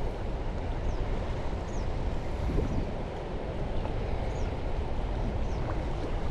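Steady low outdoor rumble of wind and water noise, with a few faint, short high bird chirps scattered through it.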